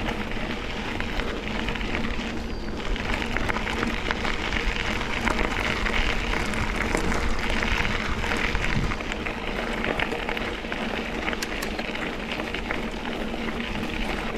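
Mountain bike rolling over a dirt and gravel double-track trail: a steady crunching and crackling of the tyres on the ground, with frequent small clicks and rattles.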